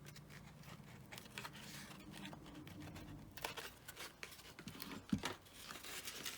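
Faint scratchy crunching and light irregular clicks of a thumbtack being worked through foam board, with a sharper knock about five seconds in.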